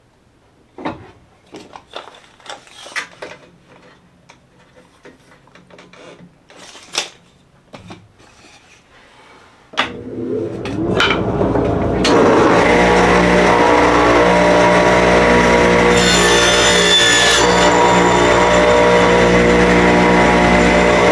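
Scattered light clicks and knocks as a table saw is adjusted. About ten seconds in, the table saw's motor starts, spins up over a couple of seconds and then runs loud and steady.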